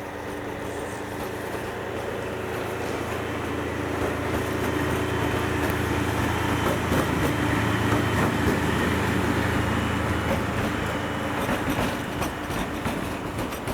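A train passing, its steady low hum and rolling noise swelling to a peak about eight seconds in and then easing off, with a few sharp clicks near the end.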